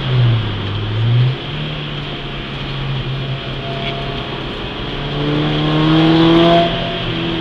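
Peugeot 206 S16's 2.0-litre four-cylinder engine heard from inside the cabin on track. Its revs dip and recover in the first second or so and hold steady, then climb under acceleration from about five seconds in before dropping away sharply near the end.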